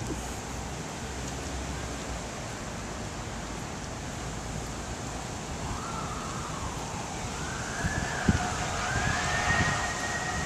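An emergency vehicle's siren coming in a little past halfway, rising and falling in slow sweeps, over a steady rushing noise of hurricane wind.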